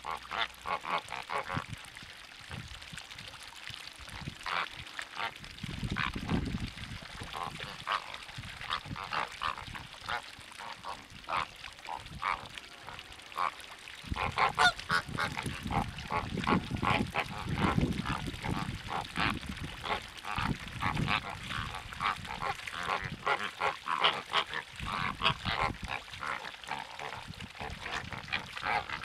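A flock of wild waterbirds calling continuously, a dense overlapping chatter of short, goose-like honks.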